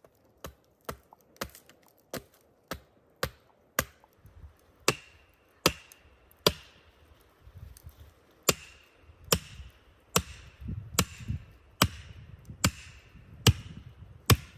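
Axe chopping wood in a steady series of strikes: light, quick blows at first, then heavier ones about one a second, each with a brief ringing note and a dull thud.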